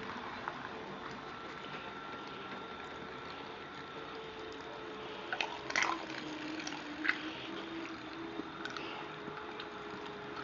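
Electric mini bike motor driving an old hand-cranked meat grinder: a steady motor whine over a hiss. About halfway a lower tone joins in, along with a few sharp clicks.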